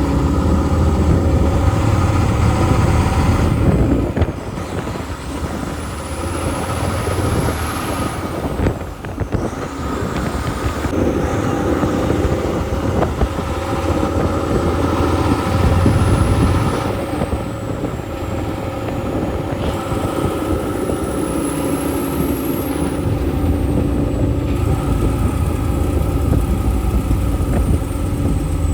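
Logging truck's diesel engine running on the road: a steady low drone that eases off a couple of times and builds again, with a faint high whine rising and falling.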